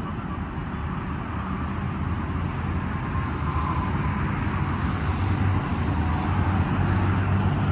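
A motor vehicle engine running steadily, a low drone that grows somewhat louder over the few seconds.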